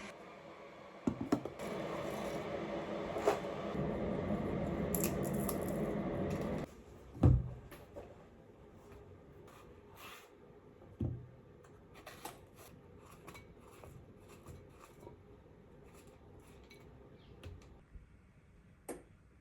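Kitchen handling sounds. A steady running noise goes for about six seconds and cuts off suddenly, then comes one sharp knock and a scatter of small clicks and taps, like dishes and utensils being handled.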